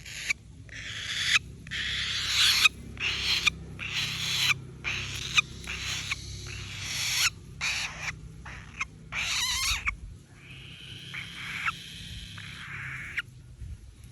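Falcon chick giving repeated harsh, hissing screeches, about a dozen in quick succession with short gaps, fading to a few fainter calls near the end.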